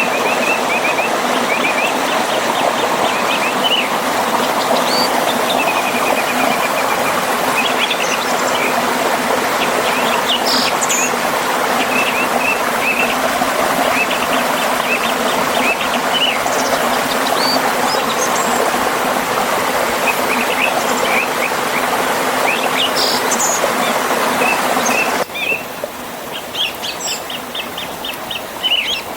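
Steady rushing water of a forest river and small waterfall, with songbirds chirping and trilling over it throughout. A few seconds before the end the water suddenly drops quieter, leaving the birds clearer.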